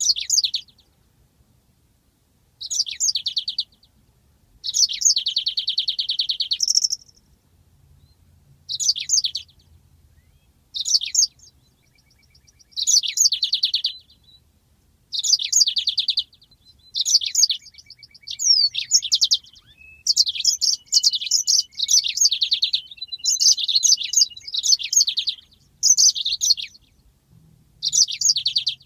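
Yellow-fronted canary (Mozambique canary) singing in phrases of sharp high notes and fast rolling trills, with short pauses between phrases. About halfway through, the phrases run almost without a break.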